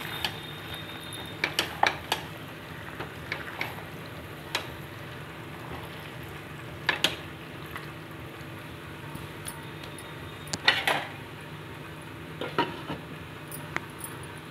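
Marinated chicken frying in oil with onions and tomatoes in a pot, a steady sizzle, stirred with a metal utensil that knocks and scrapes against the pot every second or two, the loudest knocks about eleven seconds in.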